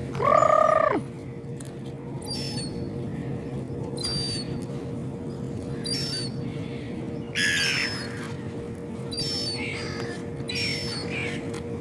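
Gulls calling: one loud drawn-out call in the first second, then short squawks every second or two, over a steady low hum.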